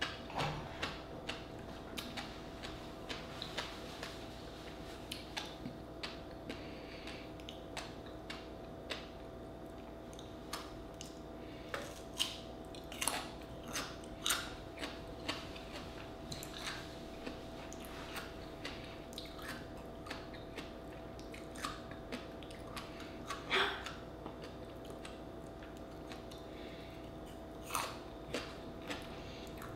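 Close-miked mouth sounds of someone chewing a raw oyster topped with fish roe: irregular wet smacks and small sharp clicks, a few louder ones in the middle stretch.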